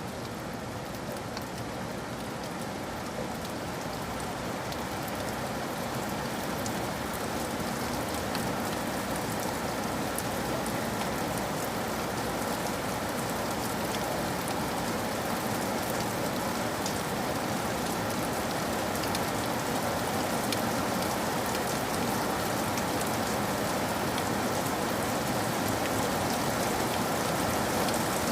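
Steady rain falling, an even patter of drops that slowly grows a little louder.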